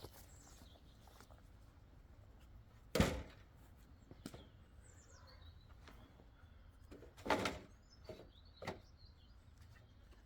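Axe blows on wood: one sharp strike about three seconds in and a second, longer-ringing one about seven seconds in, with a few lighter knocks around them. Birds chirp faintly between the blows.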